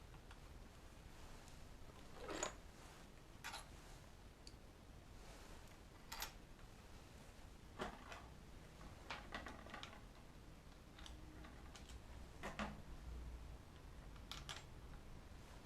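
Faint, scattered clicks and light taps of small hard objects being handled, about one every second or two, over a quiet room background.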